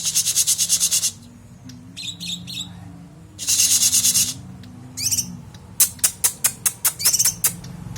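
A songbird singing in fast, tight bursts of high chirps: rapid trills at the start and around three and a half seconds in, then a string of sharp separate chirps near the end, over a low steady hum.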